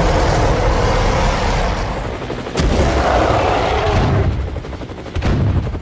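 Added action sound effects of an energy weapon firing: dense, loud blasting and rumbling that eases about two seconds in, then a sharp crack and more blasting.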